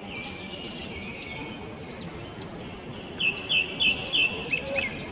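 Small birds chirping over a steady outdoor background, with a run of about five sharp, louder chirps a little after three seconds in.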